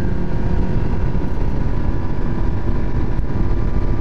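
A 125 cc motorcycle engine running at a steady cruise, its tone holding level, under a low wind rumble on the microphone.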